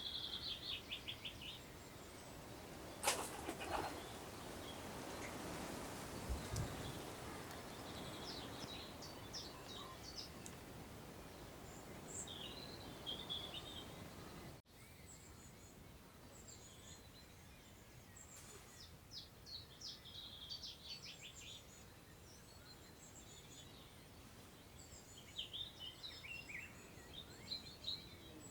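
Small songbirds singing short phrases of quick, high notes from the surrounding countryside, over a soft rush of wind through long meadow grass. A single sharp click about three seconds in.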